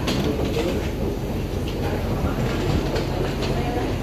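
Daiichi Seloon travelator (moving walkway) running: a steady low mechanical rumble with faint irregular clacking.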